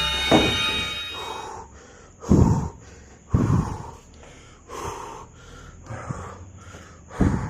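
A person breathing heavily, about one breath a second, with some breaths blowing hard into the microphone.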